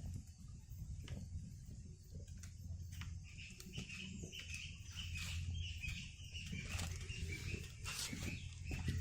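Birds chirping: short repeated calls that start about three seconds in and carry on, over scattered clicks and a low steady rumble.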